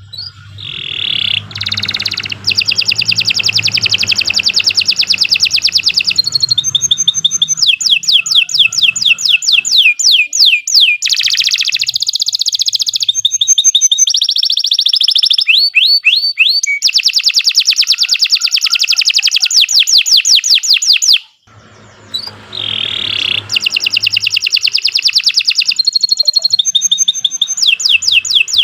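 Domestic canary singing a long, loud song of rapid trills and fast repeated note phrases, changing from one trill type to the next. The song breaks off briefly about two-thirds of the way through, then starts again.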